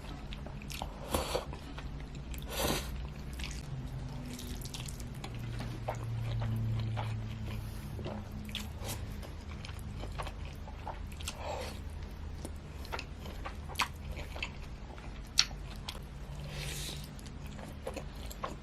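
Close-miked eating of spaghetti: chewing with irregular wet mouth clicks and smacks, one every second or so.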